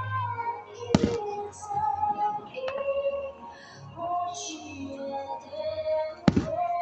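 Music with a sung melody, broken by sharp firework bangs: a loud one about a second in, a fainter crack a couple of seconds later, and another loud bang near the end.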